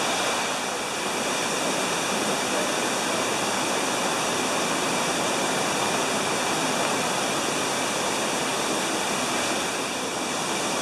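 A man-made waterfall on a mini golf course, water rushing steadily and loud enough to make a voice hard to hear.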